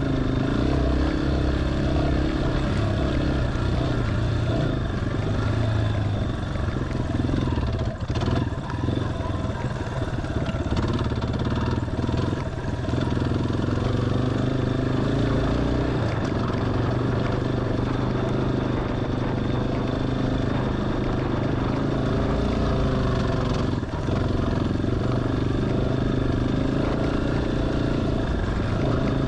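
Single-cylinder dual-sport motorcycle engine running on a dirt trail, its pitch rising and falling with the throttle, with a couple of brief dips, about eight seconds in and again near the end.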